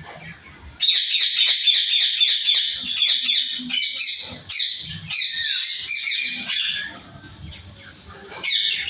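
Pet parrots calling in a fast run of short, falling high notes, about five a second, starting about a second in; the calls thin out after about six seconds, with one more short burst near the end.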